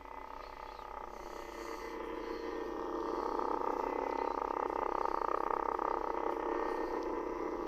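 Lightsaber sound board's electronic blade hum, a steady buzzing drone that swells louder through the middle and eases off near the end.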